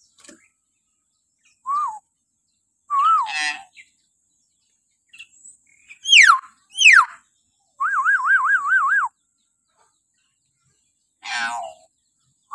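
Common hill myna giving a string of shrill whistles: a short rising-and-falling whistle, a whistle with a harsh rasp, two steep downward-sliding whistles in quick succession, then a rapid wavering trill of about six wobbles. A harsh raspy call comes near the end.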